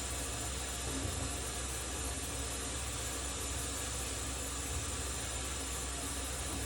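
Sandblaster blasting small steel bolts: a steady hiss of compressed air and abrasive with a low hum under it.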